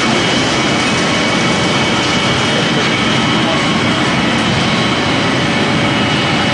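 Biomass pellet mill running steadily while making pellets from corn stalk and sawdust: a loud, even mechanical rush with a few faint steady whining tones, unchanging throughout.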